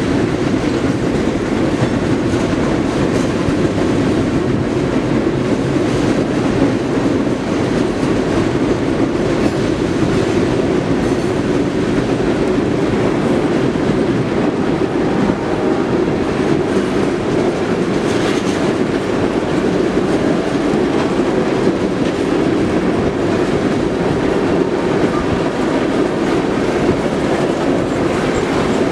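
A freight train's cars rolling steadily past at close range, steel wheels clacking and rumbling over the rails. The cars are mostly covered grain hoppers.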